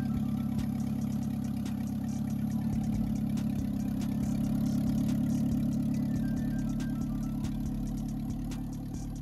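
Rebuilt Honda H22 four-cylinder engine idling steadily.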